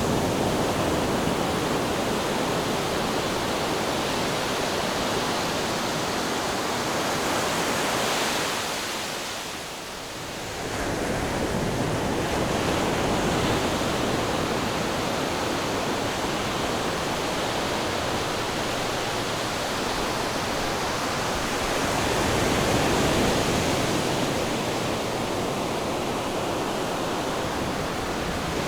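Ocean waves washing on a shore: a continuous rushing surf that falls away briefly about a third of the way through, then builds again in slow swells.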